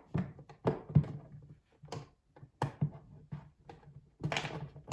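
Handling of plastic LEGO pieces and a large LEGO model on a tabletop: a run of irregular knocks, clicks and dull thunks as parts are picked up and set down, the loudest about a second in and again near the end.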